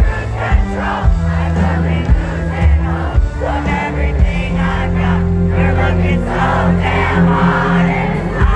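Loud live country music from an amplified band, with heavy sustained bass notes, and a crowd singing along.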